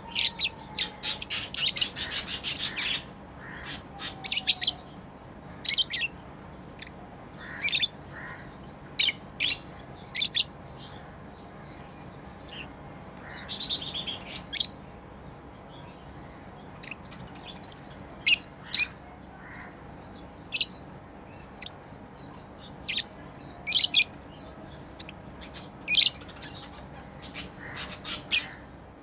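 Pet lovebirds chirping: sharp, high chirps, scattered singly or in quick pairs, with two rapid flurries of chatter, one near the start and one about halfway through.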